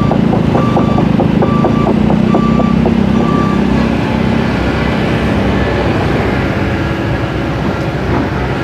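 Heavy diesel machine running with its backup alarm beeping at roughly one beep a second; the beeping stops about three and a half seconds in and the engine grows quieter soon after.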